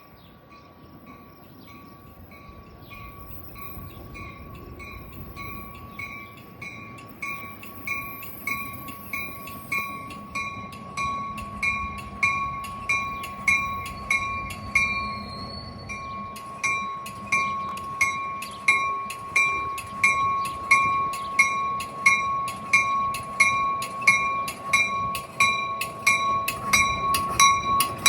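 Railroad bell ringing at a steady beat of about one and a half strikes a second, growing louder as a train approaches.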